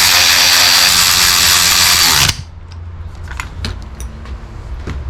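Power drill running steadily while driving in bolts, cutting off suddenly about two seconds in, followed by light clicks and knocks of parts being handled.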